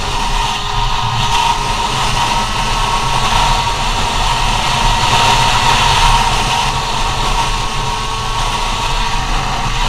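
Small two-stroke GoPed CR70 scooter engine running at high revs under way, a steady high buzz that swells slightly about halfway through, over rushing wind noise.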